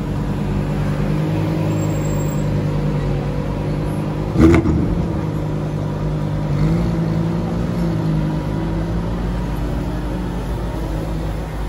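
Lamborghini Aventador S Roadster's V12 idling in slow traffic, with one short sharp throttle blip about four and a half seconds in and a slight rise in the engine note a couple of seconds later.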